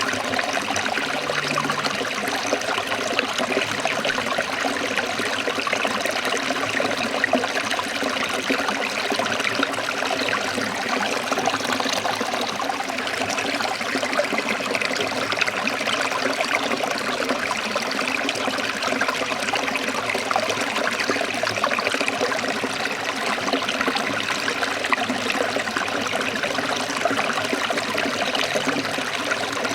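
Forest stream flowing and trickling over rocks, a steady, even rush of water.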